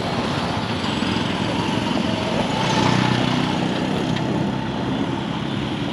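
Road traffic noise: steady engine and tyre noise, with a vehicle engine swelling louder about halfway through and fading again.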